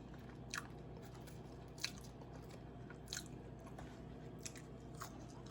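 Faint chewing of crispy seasoned crinkle-cut fries: a few soft, short crunches spaced a second or so apart.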